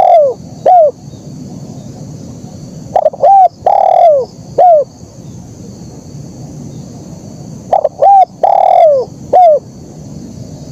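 Spotted dove cooing its repeated song phrase: a few short coos, a long drawn-out coo that falls in pitch, then one last short coo. The tail of one phrase sits at the start, and two full phrases follow about five seconds apart, over a steady high hiss.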